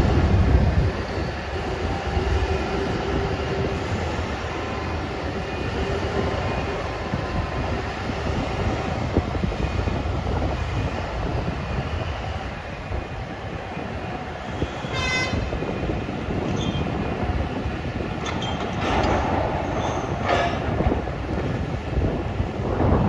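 A 20 cubic metre electric rope shovel loading coal into a 190-tonne haul truck: a steady, heavy mechanical rumble with faint whining tones. There is a brief high metallic squeal about fifteen seconds in, clattering a few seconds later, and a loud surge near the end.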